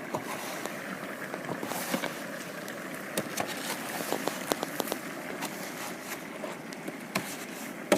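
Firewood crackling and popping under a salt-boiling cauldron: irregular sharp snaps over a steady rushing background.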